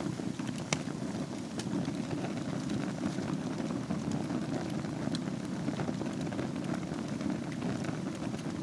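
Fire burning in a fireplace: a steady low rumble of flames with scattered crackles and pops, one sharper pop just under a second in.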